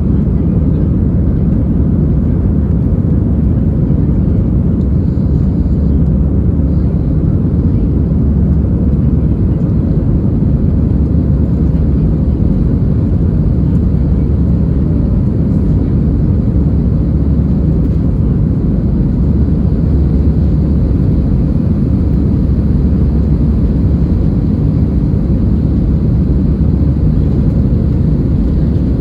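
Steady, loud engine and airflow noise heard inside the passenger cabin of an Airbus A320-216, its CFM56 turbofans under power, deep and unchanging throughout.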